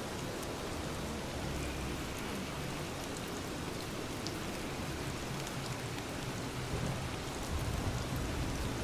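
Steady rain falling, with scattered drop ticks over an even hiss. A low rumble rises near the end.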